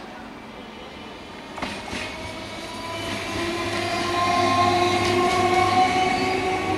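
Electric multiple unit local train running past close by, its wheels knocking over rail joints twice about one and a half to two seconds in, then a steady whine with running noise that grows louder as the coaches go by.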